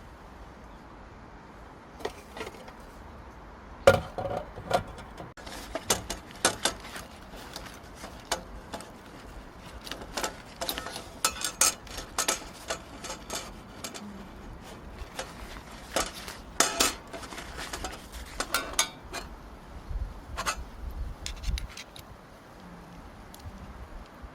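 Irregular light clinks, taps and knocks of hard objects being handled, like cookware or gear being set out, scattered throughout over a faint steady low hum.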